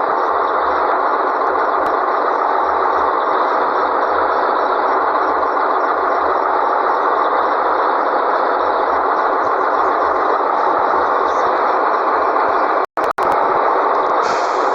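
Scania 113G truck running, a steady loud engine-and-road noise without much change in pitch; the sound drops out briefly twice about thirteen seconds in.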